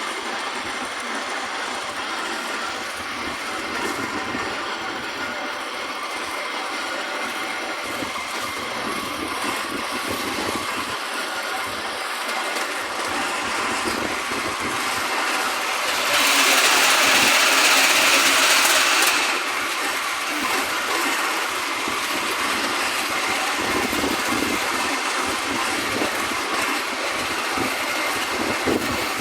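Miniature railway train running, heard from on board: the steady rumble and clatter of its wheels on the track. About halfway through, a louder rushing hiss lasts about three seconds.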